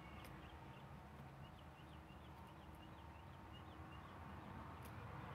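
Near silence: faint outdoor background with a small bird chirping in quick short notes, and two faint clicks, one just after the start and one near the end.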